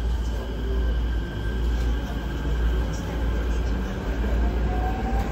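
Keikyu 1000-series stainless train pulling away, heard inside the car: a steady low rumble under faint whines from its full-SiC VVVF inverter and traction motors, with a motor tone starting to rise in pitch about four seconds in as the train gathers speed.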